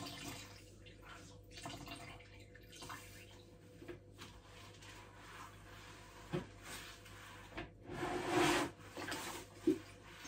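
A wet mop being worked through spilled water on a hard floor: a string of wet swishes and splashes, loudest about eight seconds in, with a couple of short knocks.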